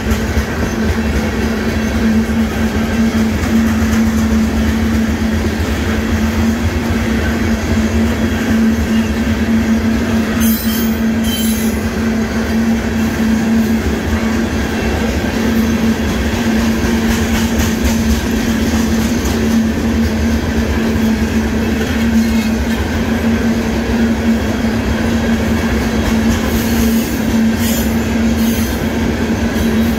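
Freight train of loaded gravel cars rolling steadily past a grade crossing: a continuous rumble of wheels on rail with a steady hum. There are short sharp clatters about ten seconds in and again near the end.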